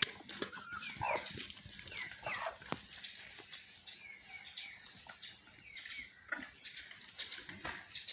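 Chickens and chicks feeding on dry roti: many short chick peeps with a few lower hen clucks, most of the louder calls in the first three seconds.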